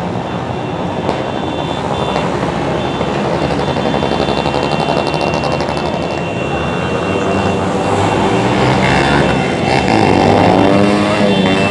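Motorcycle engines running as a group of bikes rides past in procession, growing louder. Near the end one engine revs up and down.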